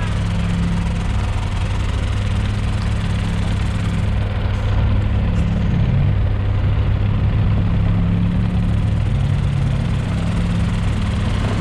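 A 4x4 off-road vehicle's engine running at low speed with a steady low hum, its pitch shifting slightly now and then.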